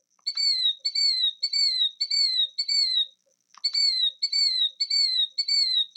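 Killdeer calling: a run of shrill, down-slurred whistled notes repeated about twice a second, pausing briefly about halfway through, then resuming.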